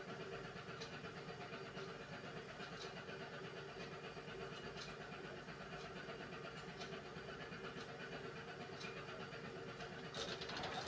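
Beko WMY81283LMB2 washing machine running its hand wash cycle: a steady motor hum as the drum turns, with scattered light clicks. About ten seconds in, a louder swish of water starts.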